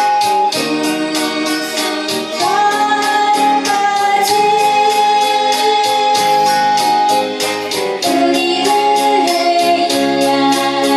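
Singing with keyboard accompaniment over a steady beat, with one long held note through the middle.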